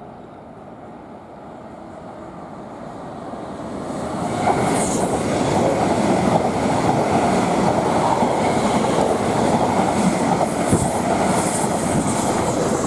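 Electric train on the Great Eastern Main Line running through the station, building up over the first four or five seconds to a loud, steady rumble of wheels on rail with brief high squeals.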